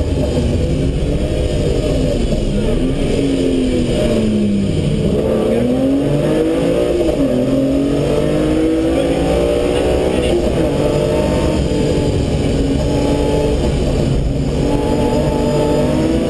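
BMW M3 Compact rally car's engine heard from inside the cabin at racing speed, its pitch falling and rising several times as the revs change, then holding nearly steady near the end, over a constant road and wind rumble.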